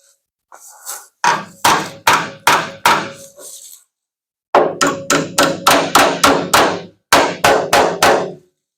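Body hammer striking the sheet-metal panel of a pickup-truck bed to work out a dent. There are three runs of quick, ringing metal blows, about three a second, with short pauses between the runs.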